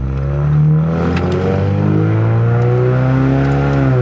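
Car engine revving under hard acceleration, its pitch climbing steadily for about three seconds, then dropping near the end. The transmission is slow to shift up, which the driver notices.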